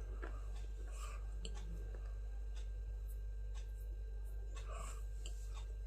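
Steady low electrical hum with sparse faint clicks and soft crackles scattered through it.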